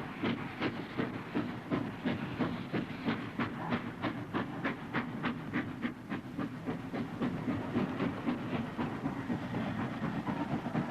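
Steam train running: a steady hiss of steam under a fast, even beat of clicks, about four a second.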